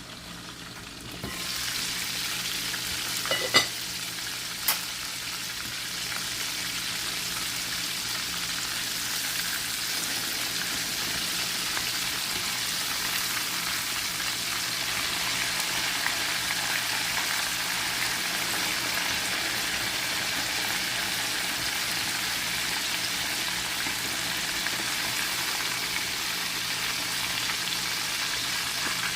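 Chicken thighs frying in hot oil, a steady sizzle that starts about a second in, with two sharp knocks a few seconds in.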